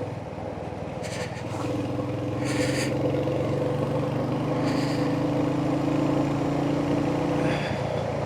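Royal Enfield Hunter 350's single-cylinder engine running under way, pulling a little harder from about a second and a half in and easing off near the end. A few brief hissing sounds come over it.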